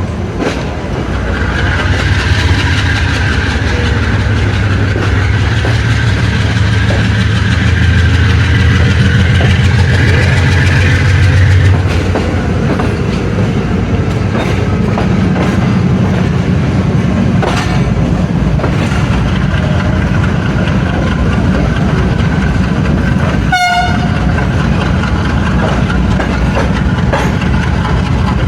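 AGE30 'Blue Tiger' diesel-electric locomotive working hard, heard from the train behind it: its engine chugs loudly for about the first twelve seconds and then eases back. Wheels click over rail joints now and then. A brief high-pitched tone cuts in once, near the end.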